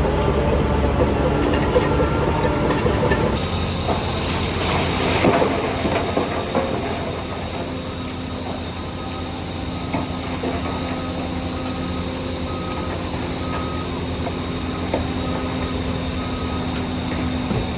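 Diesel engines of heavy earthmoving machinery running steadily, a bulldozer and dump truck at work, with a loud hiss of air or sliding material lasting about two seconds early on. A faint, evenly repeated beep sounds through the second half.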